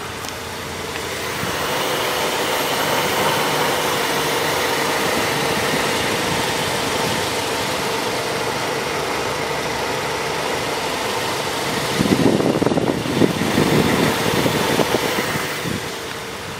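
A car engine running steadily at idle. Gusts buffet the microphone for a few seconds near the end.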